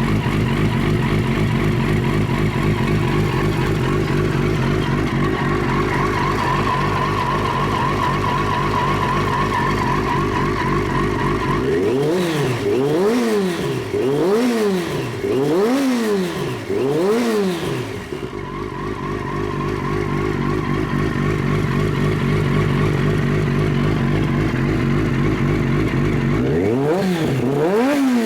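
2000 Triumph TT600's inline-four engine running at a steady idle, then revved in a quick series of about five throttle blips, each rising and falling, before settling back to idle; it starts revving again near the end.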